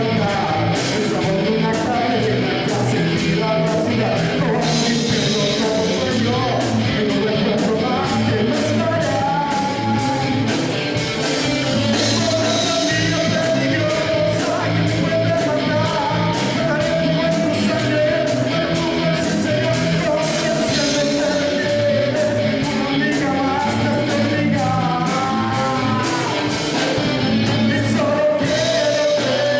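A rock band playing a song, with a steady drum beat under guitar and a singing voice.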